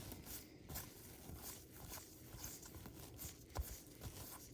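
Faint rustling and light clicking of baseball cards being flipped through and slid against one another by hand, with one sharper knock about three and a half seconds in.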